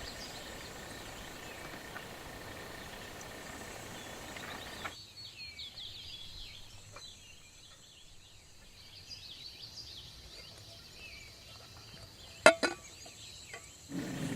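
Outdoor ambience: a steady hiss for about five seconds, then, after an abrupt change, many birds chirping. Two sharp knocks come close together near the end.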